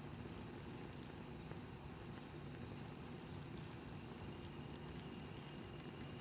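Wood fire burning, with soft, scattered small crackles over a steady low rush.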